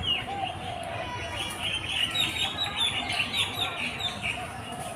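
A chorus of many birds chirping and calling, with a dense run of quick high chirps from about two to four seconds in.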